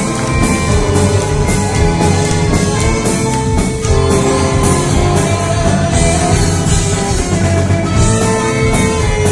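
Rock band playing an instrumental passage live, with a steady cymbal beat over long held notes and no singing.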